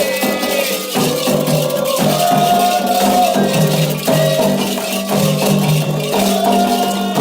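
Candomblé ritual music: a sung chant in long held notes over a rattle shaken steadily throughout.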